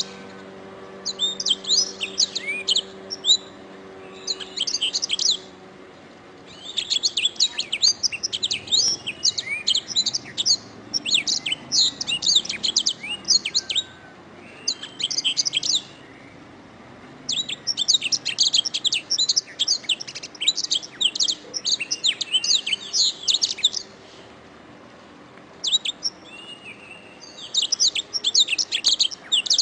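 Domestic canary singing: rapid, high-pitched trilled phrases lasting one to six seconds each, with short pauses between them.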